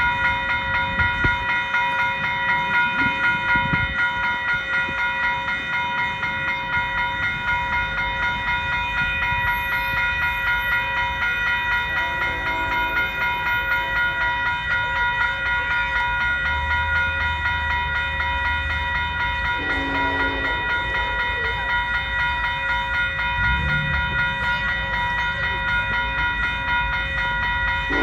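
CN freight train passing with a low rumble, under a continuous high, many-toned ringing sound that holds steady throughout.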